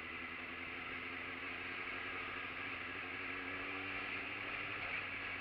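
Motorcycle engine running at a steady pace while riding, its tone holding level after a climb in revs, with a steady rush of wind and road noise.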